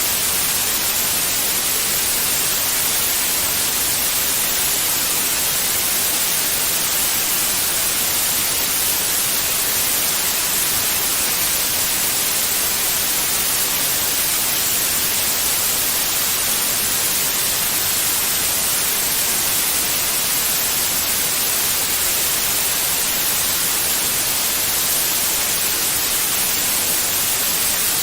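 Steady white noise: an even, unbroken hiss, brightest in the treble, with no change or events.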